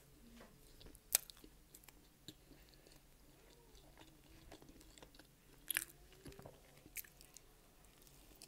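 Close-miked chewing of a mouthful of pizza: soft, wet mouth sounds broken by a few sharp clicks, about a second in, near six seconds and again at seven.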